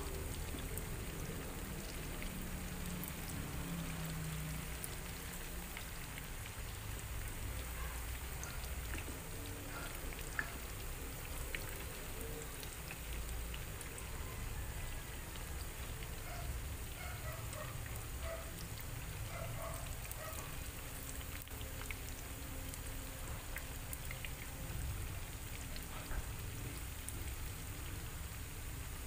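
Tofu blocks deep-frying in hot oil in a frying pan: a steady sizzle dotted with small crackling pops.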